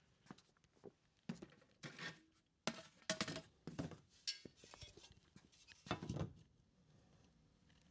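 A string of irregular knocks, taps and scrapes from hands working with hardware and tools while a mounting position is settled.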